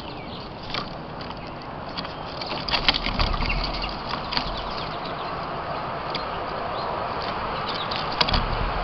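Outdoor ambience of a vehicle approaching, a steady rushing noise that grows louder over the second half, with scattered light clicks and taps over it.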